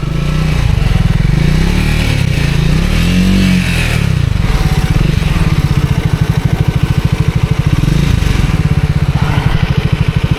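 Motorcycle engine revving, rising and falling in pitch a couple of times, then running steadily with a fast, even pulse.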